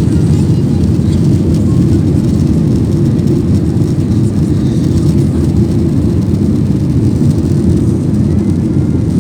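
Airliner cabin noise after takeoff: a steady, loud low rumble of the engines and rushing air heard from inside the cabin.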